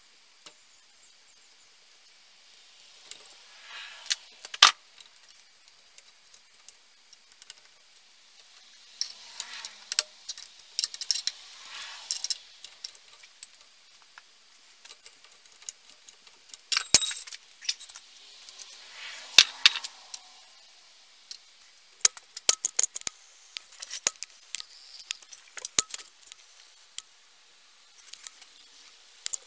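Small metal parts and hand tools being handled on a workbench: irregular sharp clinks and rattles, with short stretches of scraping or rubbing between them.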